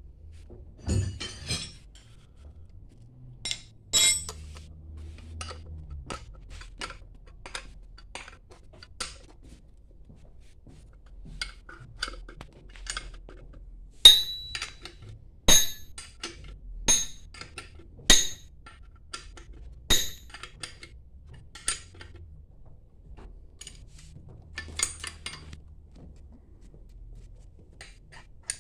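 Metal hand tools clinking and tapping on the metal parts of a hydrophore pump during reassembly. Scattered light clinks, with a run of about six sharp, ringing metallic strikes, roughly one and a half seconds apart, in the middle.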